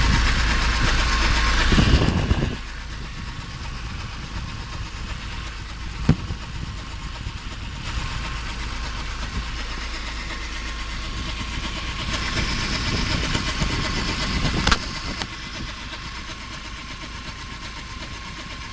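ZMZ-409 2.7-litre four-cylinder petrol engine running, with a steady thin whine over the engine noise: an extraneous noise that appeared after a start at −30°C and that the owner cannot identify. The engine is louder for the first couple of seconds and again around 12 to 15 seconds in, with a sharp knock about 6 seconds in and another about 15 seconds in.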